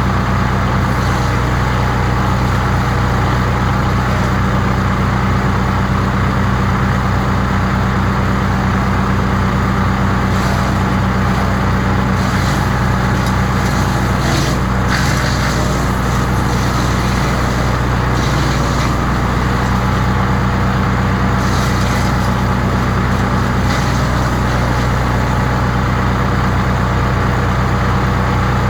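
The petrol engine of a 15 hp wood chipper running steadily at a constant speed, with a few short, higher-pitched scraping noises in the middle.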